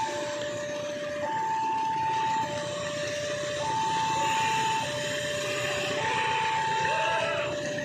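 Electronic two-tone warning alarm sounding a high note and a low note in turn, each held about a second, over steady heavy rain noise.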